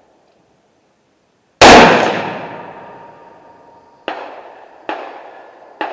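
A rifle shot about a second and a half in, very loud and close, echoing away over about two seconds, then three quieter sharp gunshots from further off, roughly a second apart, near the end.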